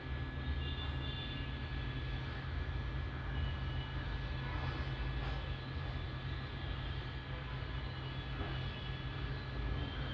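Hot-air rework gun blowing steadily: an even rushing hiss over a low hum, with a thin steady whine.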